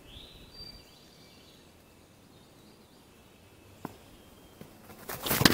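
Faint outdoor ambience with one short rising bird chirp in the first second and a single click about four seconds in. Near the end comes a loud burst of knocks and rustling.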